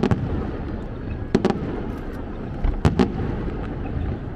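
Aerial fireworks bursting: sharp bangs in three clusters, one at the start, one about a second and a half in and one about three seconds in, over a steady low rumble.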